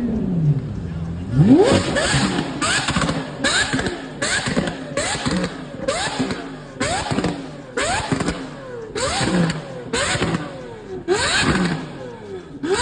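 Lamborghini Aventador V12 with a Gintani aftermarket exhaust, revved in a long series of quick throttle blips, each a short rising sweep in pitch, about one and a half a second.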